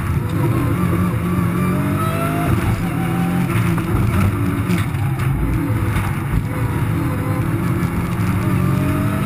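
Race car engine heard from inside the cockpit, running hard under load, its pitch rising again and again as it accelerates through the gears.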